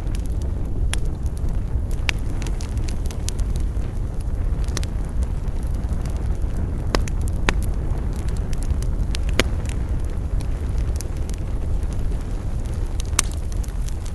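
Campfire burning with a steady low rumble and irregular sharp crackles and pops from the burning wood, about a dozen over the stretch, one of the loudest near the end.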